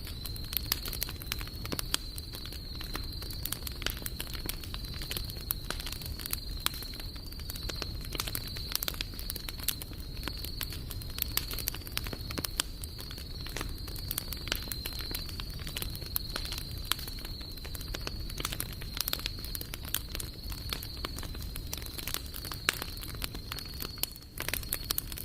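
Wood campfire crackling, with many irregular sharp pops over a low steady rumble.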